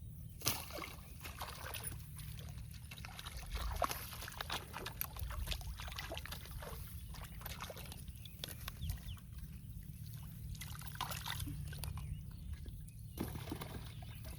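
Water sloshing and splashing in shallow canal water, with many irregular small clicks and splashes.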